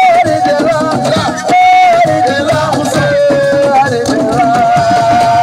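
Live assiko band music: a voice holding long, wavering notes over busy hand drums and rattling shakers.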